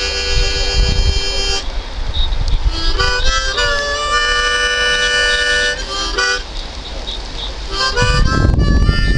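Blues harmonica playing: long held chords, a note bent down and back about four seconds in, and short stabbed notes, with a pause before the last phrase. A low rumble runs under the last phrase near the end.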